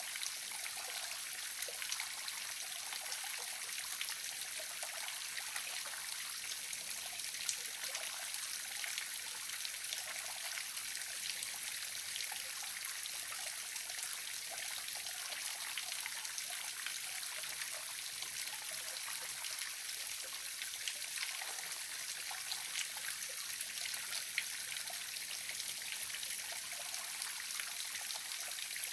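A waterfall running steadily: a continuous rush of falling water with many small splashes in it.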